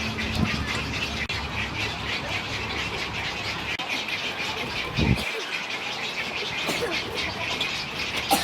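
Many wading birds and their nestlings squawking and chattering over one another in a nesting colony. A low rumble fades out partway through, and there is a short low thump about five seconds in.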